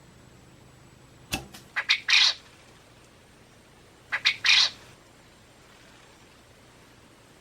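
A bird squawking twice, a few seconds apart, each harsh squawk preceded by a few short clicks.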